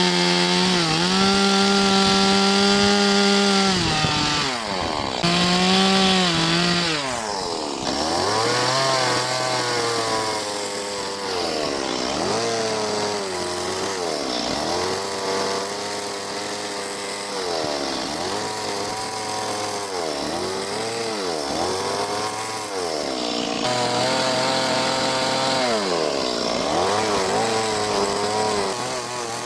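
Two-stroke chainsaw carving wood. It is held at high revs for the first few seconds and eases off briefly about four seconds in. From about eight seconds on it revs up and down roughly every two seconds as the throttle is worked through the cuts.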